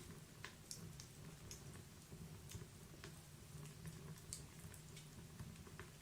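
Wood fire crackling in a fireplace: faint, irregular snaps and pops over a low, steady rumble.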